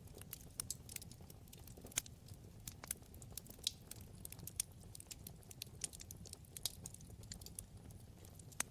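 Wood fire in a fireplace crackling: many small irregular pops and snaps over the low steady rush of the flames, with a sharper pop about two seconds in and another near the end.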